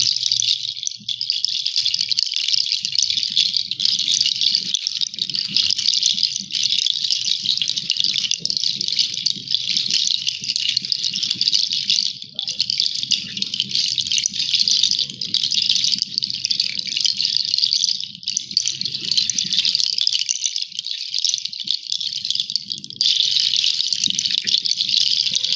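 Flowing water: a steady, loud hissing rush with splashing, with a few abrupt jumps where the recording is cut.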